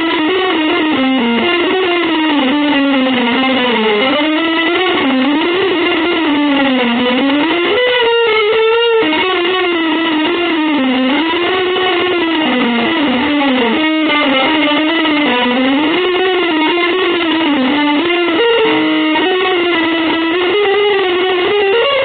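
Electric guitar with effects playing one sustained melodic line whose pitch glides smoothly up and down, the notes running into one another, with a brief break about 8 seconds in.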